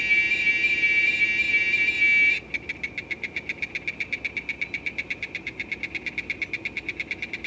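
Giant cicada (Quesada gigas) singing: a steady, high, whistling drone that about two and a half seconds in switches abruptly to a fast, even pulsing at the same pitch.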